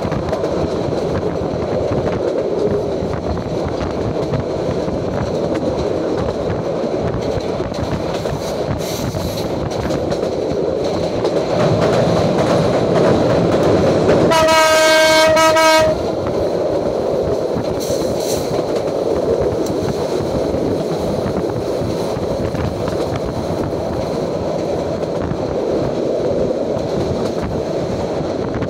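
Train running, heard from inside a carriage at the window: a steady rumble and clatter of the wheels on the rails. About halfway through, a train horn sounds one held blast of about a second and a half, the loudest moment.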